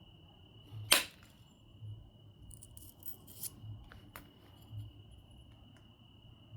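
Obsidian being knapped: a sharp crack as a flake comes off about a second in, then a scratchy rubbing like the edge being abraded, and two lighter clicks. A faint steady high whine runs underneath.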